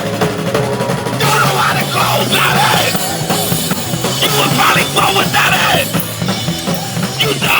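Live hardcore punk band playing loud, with distorted guitars, bass and drums; shouted vocals come in about a second in.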